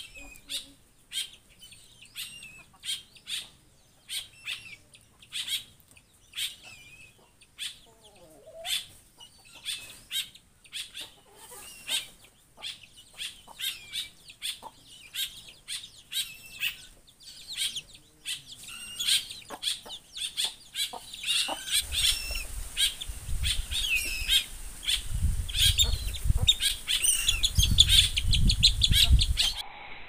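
Birds chirping in short, sharp calls about twice a second. In the last several seconds a louder, low, pulsing fluttering comes in, fitting a large bird flapping its wings.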